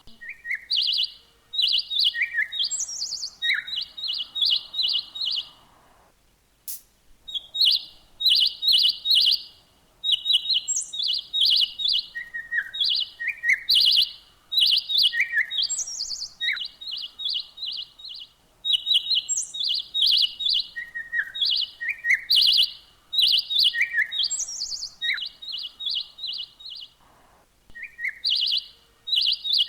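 A songbird singing a repeated song of rapid, high chirps in quick clusters, each broken by short downward-slurred notes and an occasional higher falling note. The song pauses briefly about six seconds in and again near the end.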